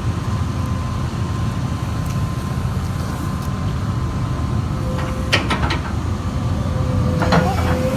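Caterpillar 329E L excavator's diesel engine running steadily with a low rumble. A few sharp clicks come about five seconds in and again near the end, and a thin steady whine sets in just before the first clicks.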